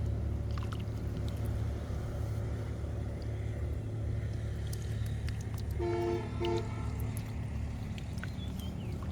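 A steady low engine hum, with two short horn toots close together about six seconds in.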